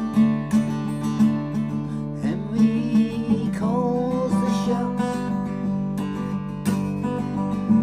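Acoustic guitar strummed steadily in a loose, unrehearsed accompaniment. A voice sings a wordless line over it in the middle.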